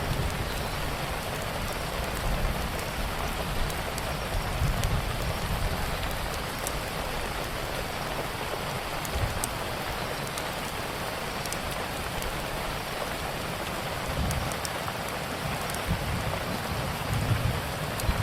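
Steady rain falling, with scattered sharp crackles from a wood fire and low thunder rumbling now and then.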